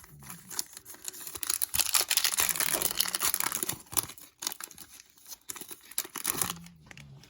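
Foil wrapper of a sealed trading-card pack being torn open and crinkled, a dense crackle loudest in the middle that thins out near the end.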